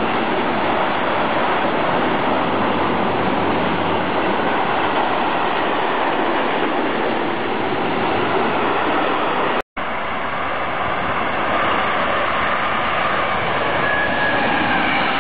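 Freight trains rolling past at close range: first the wagons of a long freight train with car-transporter and flat wagons, then, after a short break, an electric locomotive hauling tank wagons. The wheels make a steady loud rumble on the rails throughout, with a faint high tone near the end.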